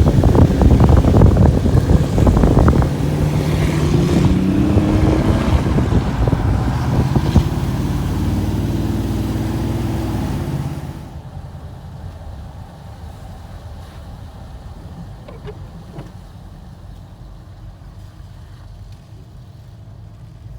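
A car engine running loudly and revving, its pitch rising in steps as it pulls away. About eleven seconds in, it cuts off suddenly to a much quieter steady noise.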